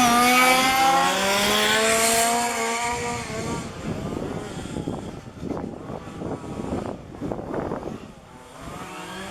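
Two-stroke petrol engine of a 1:5 scale RC race car running loud at high revs, its pitch dropping slightly as it goes by, then fading into the quieter, uneven sound of other cars further around the track.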